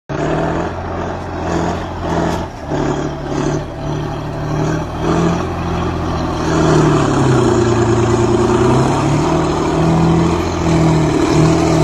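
Kirovets K-700 tractor's V12 diesel engine running hard while clearing snow. It grows louder about halfway through, and its pitch dips and then recovers as the load changes.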